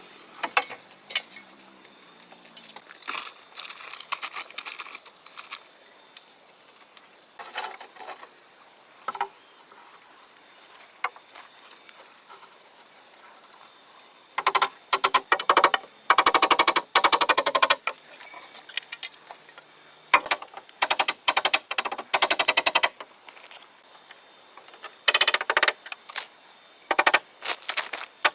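Repeated bursts of fast mechanical rattling, each one to three seconds long, with scattered knocks and clatter in between.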